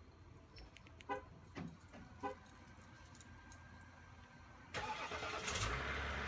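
A GMC 3500 Denali diesel pickup cold-starting at about 27°F without a block heater, after its glow plugs have warmed. A few short beeps sound from the truck first. Then the starter cranks and the engine catches within about a second and settles into a steady idle: a very quick cold start.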